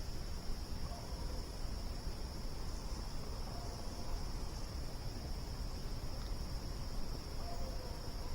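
Crickets chirring in one steady, unbroken high-pitched drone over a low rumble.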